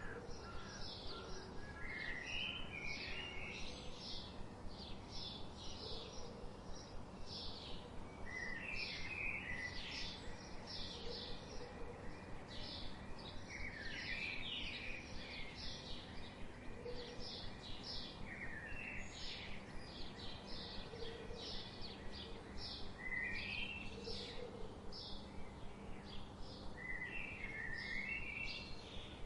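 Birdsong ambience: short high chirps repeat about twice a second throughout, with a warbled song phrase breaking in every few seconds over a steady background hiss.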